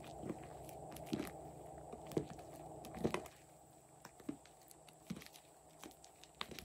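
Slime being handled by hand: soft, sticky clicks and squelches, irregular but about one a second, over a steady background noise that drops about three seconds in.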